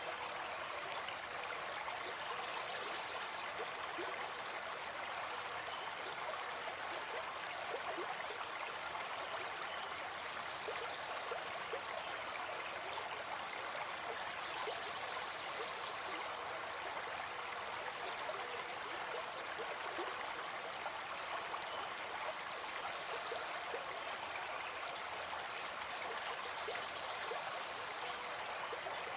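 Gentle forest stream flowing steadily, an even, unbroken rush of water.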